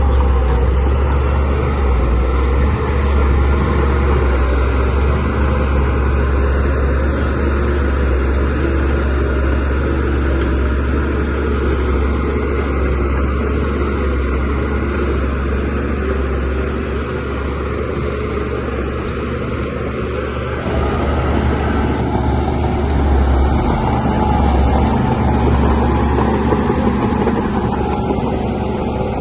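Shantui DH17C3Pro bulldozer's diesel engine running steadily while it pushes soil, a deep, continuous rumble that grows a little louder about two-thirds of the way through.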